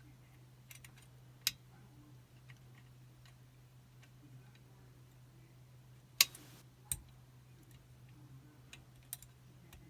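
Lock-picking tools working inside a Chubb Detector five-lever lock: scattered small metallic clicks and ticks, a few of them sharp, the loudest about six seconds in. A steady low hum runs underneath.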